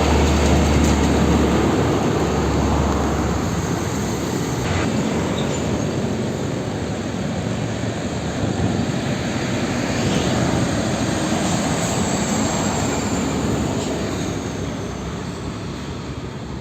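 Loud, steady engine noise, a rushing roar with a low hum that is strongest in the first few seconds; it starts and cuts off abruptly.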